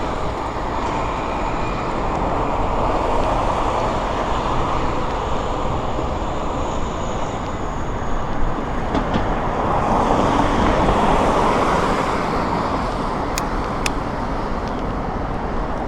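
Steady traffic and road noise heard while cycling along a city street, swelling slightly about two-thirds of the way through, with two sharp clicks near the end.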